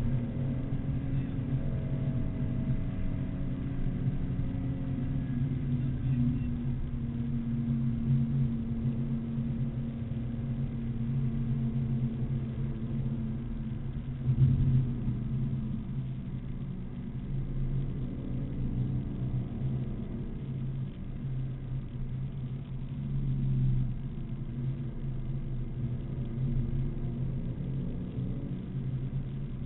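BMW Z4 M Coupe's 3.2-litre inline-six running at speed on a race track, heard from inside the cabin, its engine note rising and falling in pitch with throttle and gear changes. A brief thump about halfway through.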